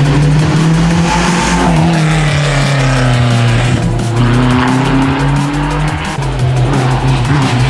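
A rally car driven hard past, its engine revving up and down through the gears, mixed with electronic music with a steady bass line.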